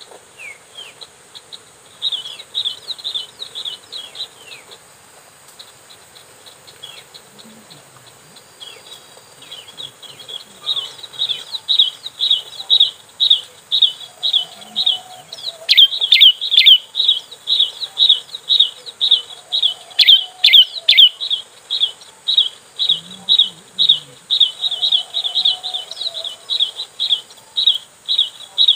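A prinia (ciblek) gives a sharp, high chirping call repeated about twice a second. It comes in a short run early on, then runs unbroken from about a third of the way in, and becomes loud. Insects hum steadily underneath, and there are a couple of sharp clicks in the middle.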